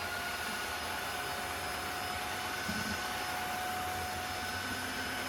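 Vacuum cleaner motor running steadily with a high whine: a returned unit that powers on and works when tested.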